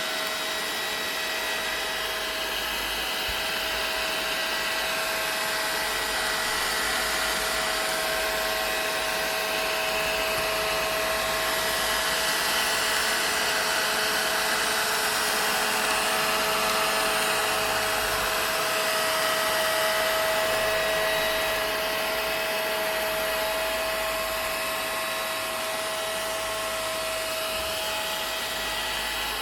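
Vacuum cleaner running steadily: a continuous rush of air with a steady motor whine, swelling gently and easing back.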